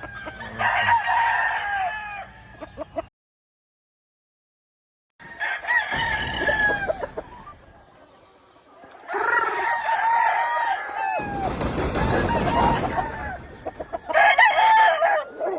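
Several gamefowl roosters crowing in turn, long crows that fall off at the end, some overlapping. The sound cuts to dead silence about three seconds in for two seconds, and a rush of noise comes in under the crowing later on.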